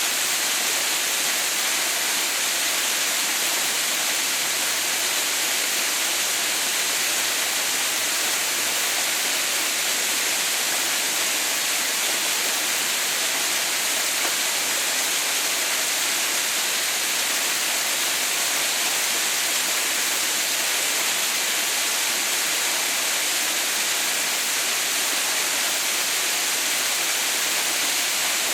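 Waterfall pouring steadily: an even, hissing rush of falling water with no breaks, from Haha no Shirataki (Mother's White Waterfall).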